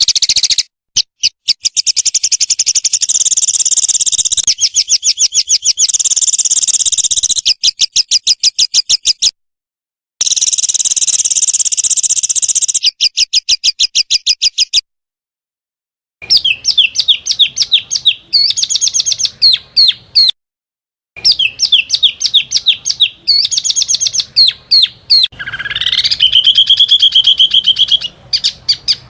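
Rapid-fire song of small songbirds: fast trills and strings of sharp, high chattering notes, the 'tembakan' phrases used as tutor song for competition birds. Several separate recordings are spliced together, cutting off abruptly into three short dead-silent gaps.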